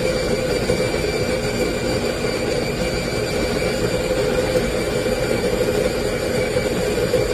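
Tuni G1 electric conical burr coffee grinder running steadily: a motor hum with steady high tones above it.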